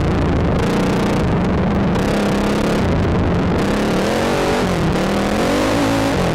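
Sport quad's engine running under throttle, its pitch rising and falling as the rider revs up and backs off, with a steady rush of wind on the helmet microphone.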